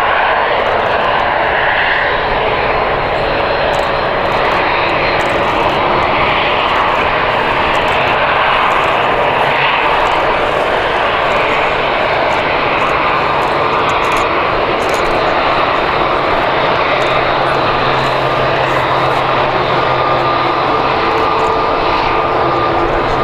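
Jet airliner engines running loud and steady, a continuous rushing noise that holds level throughout, with faint steady tones coming in near the end.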